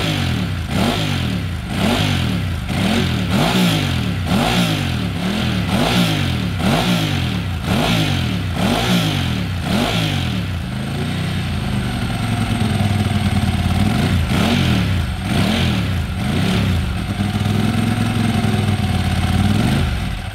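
Ducati 748R race bike's 748 cc V-twin engine revved repeatedly, the throttle blipped about once a second for ten seconds. It then holds steadier revs, with a couple more blips and a slow rise and fall near the end.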